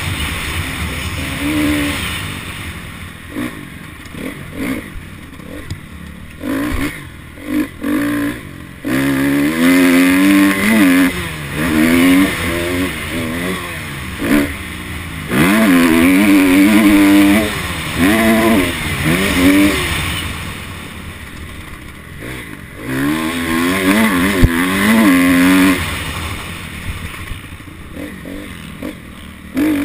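Honda CRF250 dirt bike's single-cylinder four-stroke engine being ridden hard, its pitch climbing under throttle and dropping off again and again as the rider accelerates, shifts and backs off. There is a sharp knock about two-thirds of the way through.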